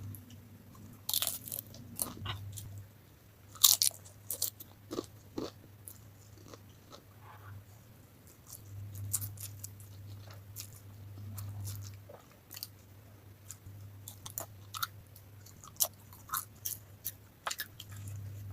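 A person chewing a mouthful of spicy noodles close to the microphone, with irregular wet mouth clicks and one louder click about three and a half seconds in.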